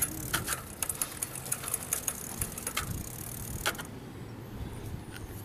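Old bicycle clicking and rattling as it is ridden and handled: a string of irregular sharp clicks that dies away about three and a half seconds in.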